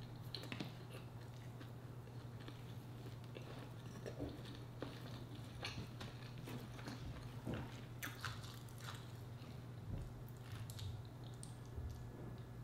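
Close-up mouth sounds of someone eating rice and seafood by hand: chewing, with scattered wet smacks and clicks from lips and fingers, over a steady low hum.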